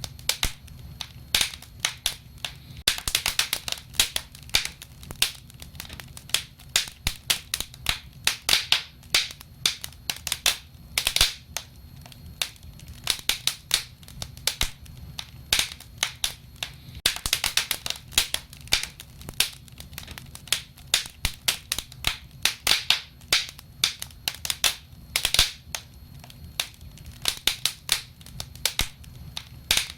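Wood fire crackling: frequent sharp pops and snaps, irregular and often in quick clusters, over a steady low rumble of the flames.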